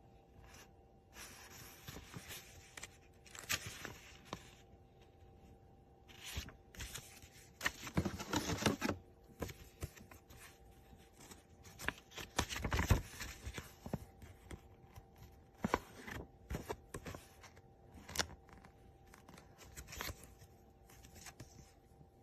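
Intermittent handling noises: rustling, scraping and sharp clicks, uneven and spread throughout, with a faint steady hum underneath.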